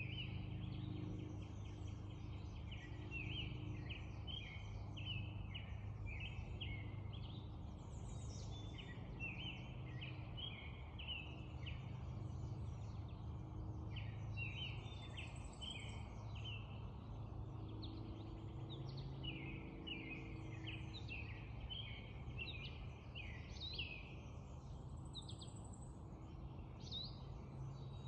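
Spring dawn chorus: many songbirds chirping and trilling at once in quick, overlapping phrases, over a steady low hum.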